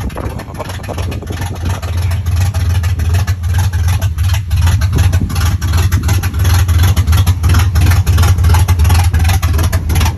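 Truck engine running with a steady low rumble and rapid pulsing throughout.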